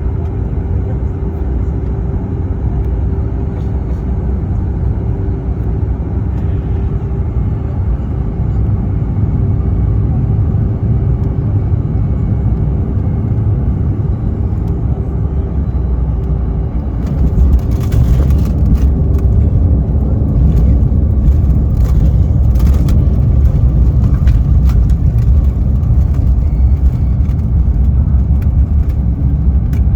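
Airliner cabin noise on the landing: a steady engine drone with a constant hum, which about 17 seconds in turns louder, with a run of knocks and rattles as the wheels touch down and the plane rolls along the runway.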